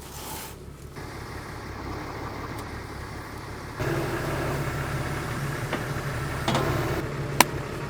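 Tractor diesel engine running steadily, getting louder about four seconds in, with one sharp click near the end.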